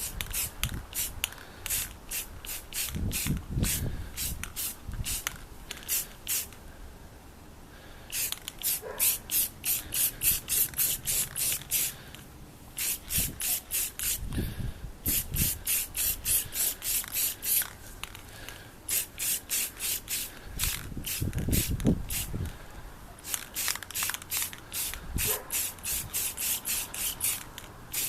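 Aerosol spray paint can in use: a fast run of short bursts, about three or four a second, in stretches broken by brief pauses, with a few low thumps now and then.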